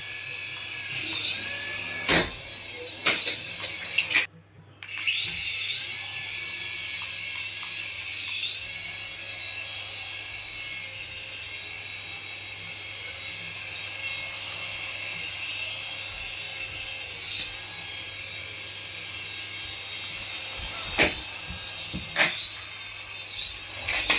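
High-pitched whine of an RC toy's small electric motor running, its pitch dipping briefly and recovering now and then, with a few sharp clicks.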